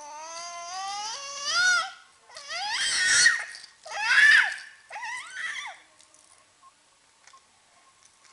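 A young child's high-pitched vocal noises: one long rising squeal, then two loud shrieks and a shorter one, ending about six seconds in.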